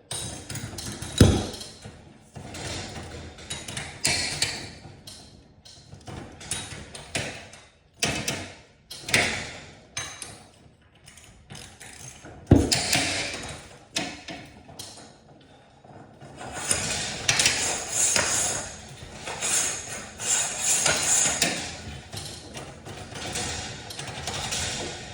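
Irregular knocking and clanking of hand tools and metal hardware during garage door spring work. There is a sharp strike about a second in and another about halfway, and a few seconds of denser, steadier clatter in the second half.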